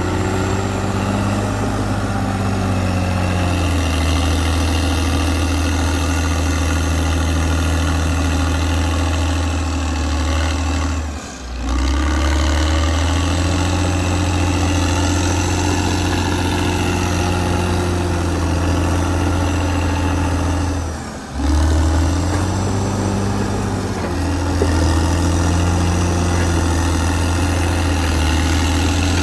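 Caterpillar D6R XL bulldozer's diesel engine running steadily and loudly, its pitch rising and falling a few times as the engine speed changes. The sound dips out briefly twice, about a third and two-thirds of the way through.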